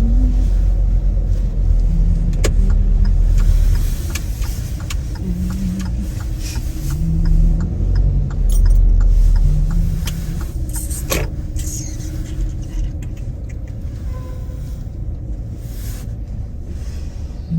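Car driving, heard from inside the cabin: a steady low road and engine rumble that eases off after about four seconds, with a few sharp clicks.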